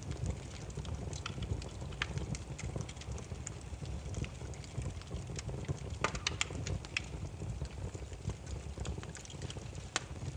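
Burning firewood crackling and popping: irregular sharp snaps over a steady low rumble of the fire, with a quick cluster of pops about six seconds in and a loud single snap near the end.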